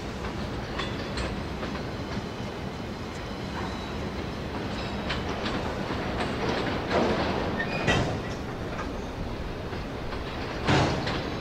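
Freight train of enclosed autorack cars rolling past: a steady rumble of steel wheels on rail, with clattering clanks over it and one loud bang near the end.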